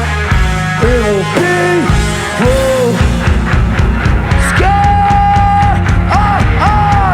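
A live rock band playing loud, distorted guitars, bass and drums, with a sung melody line over them that holds one long note a little past the middle.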